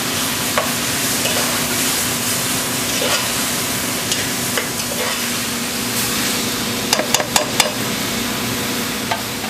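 Chopped roasted red peppers sizzling in a hot saucepan of sautéed onions and garlic as they are stirred in, a steady frying hiss, with a few sharp clicks against the pot about seven seconds in.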